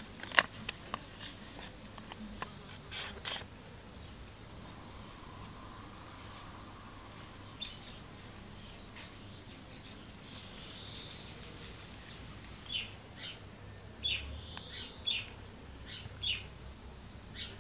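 A small bird chirping in short, repeated calls through the second half. A few sharp clicks in the first few seconds, the loudest near the very start and a double one about three seconds in.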